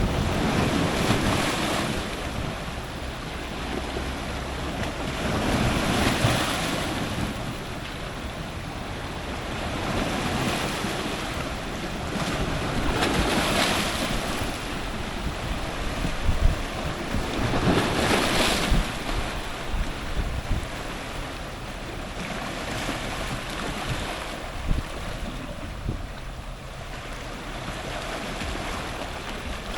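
Powerful ocean surf breaking on rocks at the waterline, the wash swelling and falling back in surges every four to five seconds.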